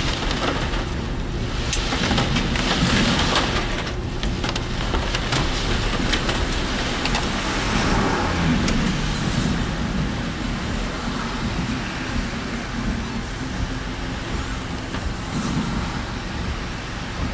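Car driving in typhoon rain: steady rain and wet-road tyre noise over a low engine hum, with scattered ticks of raindrops.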